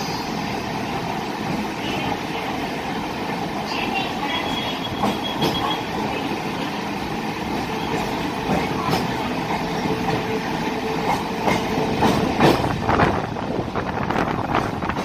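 Chennai MRTS electric local train running on the elevated track, heard from aboard: a steady rumble and rattle of wheels on rail. A thin steady whine rises out of it in the middle, and a run of sharp clicks and knocks from the rail joints builds over the last few seconds.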